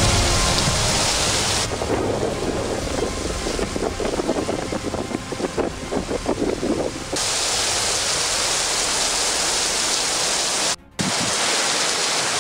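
Heavy storm rain and wind, a steady rushing hiss. About two seconds in, the sound turns rougher and choppier, like wind buffeting, for about five seconds. Then the even rain hiss returns, with a brief drop-out near the end.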